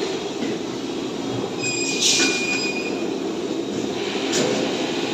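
Steel cutting machine running with a steady mechanical hum. About two seconds in there is a sharp metallic screech with a ringing tone as steel is cut, and a short clank near the end.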